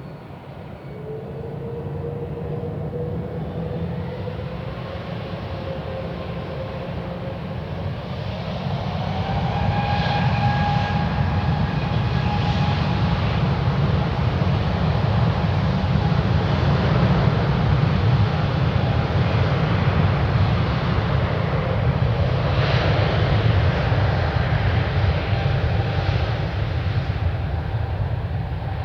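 Airbus A380-861's four Engine Alliance GP7200 turbofans spooling up to takeoff power: a whine rising in pitch over a deep rumble, growing louder through the first ten seconds, then a steady, loud run at full thrust that eases slightly near the end.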